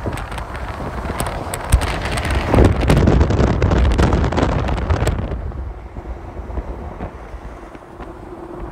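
A train passing close by, with wind buffeting the microphone. The rumble builds to its loudest about three to five seconds in, then falls away.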